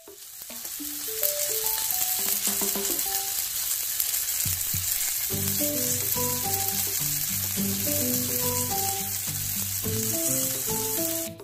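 Shrimp-and-beef dumplings pan-frying in oil in a nonstick pan, sizzling steadily. The sizzle fades in over the first second and cuts off suddenly near the end.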